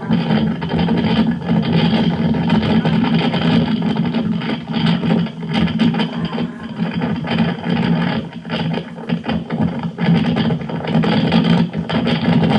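Loud, rough storm wind buffeting a security camera's microphone as a tornado passes, a constant rumbling roar with irregular rattles and gusts.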